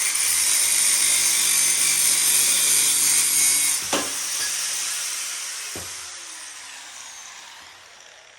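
Power grinder working on metal, switched off about four seconds in and winding down with a slowly falling whine; a knock as it stops and another about two seconds later.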